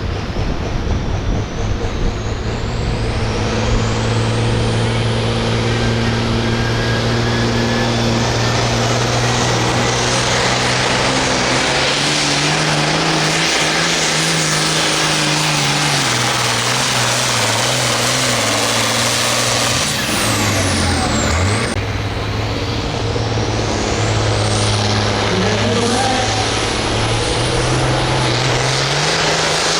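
Farm stock tractor's diesel engine running hard under load while pulling a weight-transfer sled, with a steady engine note. About two-thirds through, the note dips briefly and then comes back up.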